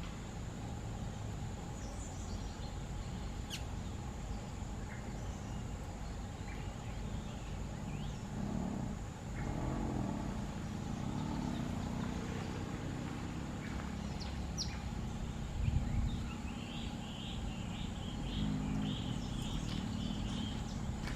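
Outdoor ambience with a steady low rumble and a thin steady high whine, broken by scattered short bird chirps and a quick run of chattering bird notes near the end.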